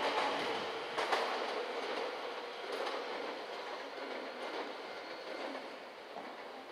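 Electric commuter train running over rail joints, its wheels clacking sharply near the start and again about a second in, the rumble fading as the train draws away.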